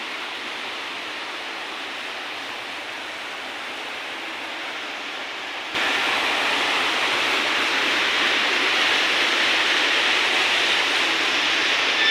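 Water from an indoor stepped waterfall rushing and splashing as a steady noise. About six seconds in it jumps suddenly louder and stays there.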